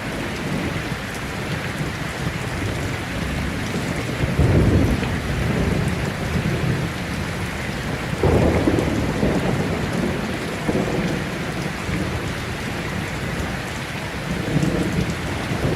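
Heavy rain falling steadily in a thunderstorm, with rolls of thunder rumbling low about four and a half seconds in, again around eight and a half seconds, and more faintly near the end.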